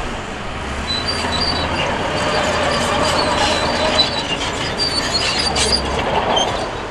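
Crawler bulldozer at work, engine running under a steady noise while its steel tracks give high, intermittent squeals, with a sharp click about four seconds in.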